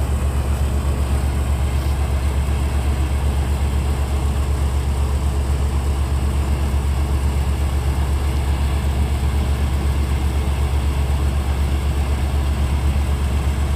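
Tractor diesel engine running steadily with an even, low throb.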